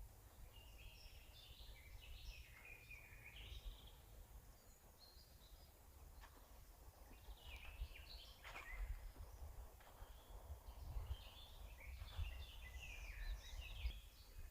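Songbirds singing in a forest: quick chirping song phrases in three bouts, in the first few seconds, around the middle and near the end. The song is faint, over a low steady rumble.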